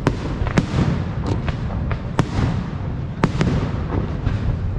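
Fireworks display: about six sharp bangs at irregular intervals over a steady low rumble and crackle of further bursts.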